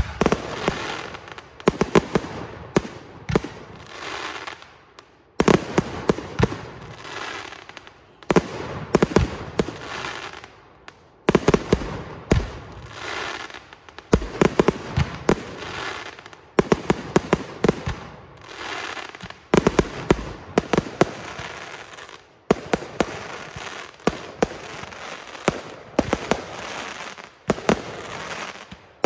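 Fireworks display: aerial shells firing and bursting in rapid volleys, a new volley starting abruptly every few seconds, with many sharp bangs and crackling stars.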